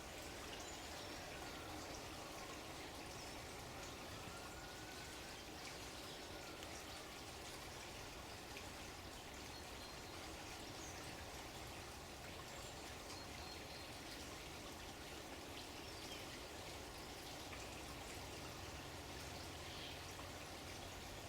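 Steady running water with faint bird chirps here and there.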